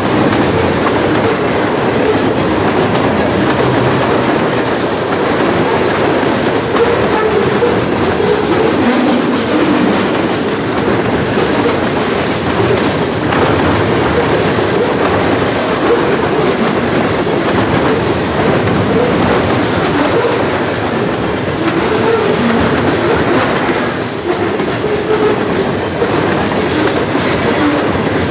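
Railroad cars of a passing train rolling by close up, with a steady loud rumble and the wheels clacking over rail joints.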